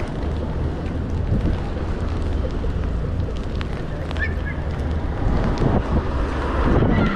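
Wind buffeting a chest-mounted GoPro's microphone while cycling, a steady low rumble over the hiss of tyres and street traffic on wet pavement. A brief high squeak about four seconds in.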